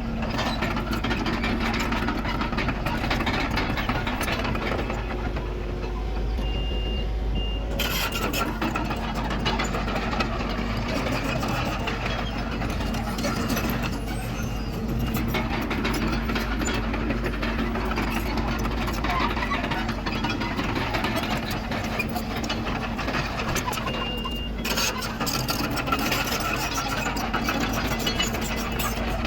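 Diesel engine of a bulldozer (Komatsu D31PX) running steadily as it works earth. Short high beeps sound briefly around 7 seconds in and again around 24 seconds.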